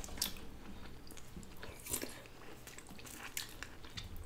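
Close-miked chewing of naan and curry: soft, wet mouth sounds with scattered small clicks and smacks, two of them a little louder, just after the start and about two seconds in.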